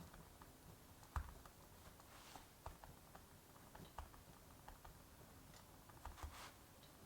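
Wood fire crackling faintly, with irregular small pops and snaps. A sharper pop comes about a second in, and a quick cluster of snaps just after six seconds.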